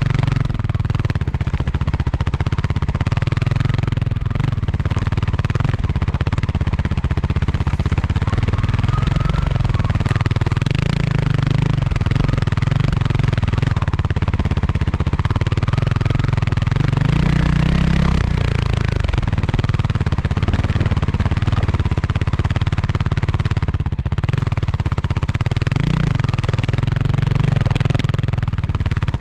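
Kawasaki KLX300R single-cylinder four-stroke dirt bike engine running steadily while being ridden, with a short rise in revs about two-thirds of the way through.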